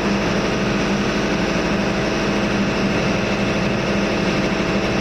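Steady, loud drone of running machinery in a ship's engine room, with a constant low hum and a fainter steady tone above it.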